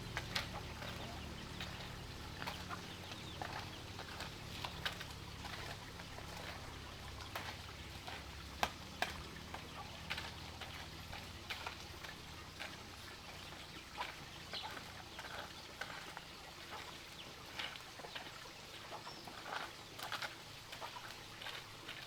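Chickens clucking now and then, short scattered calls and clicks at a low level.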